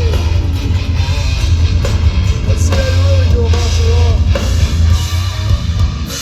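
Hardcore band playing live: loud distorted electric guitars, bass and drum kit, the heavy low end breaking off near the end.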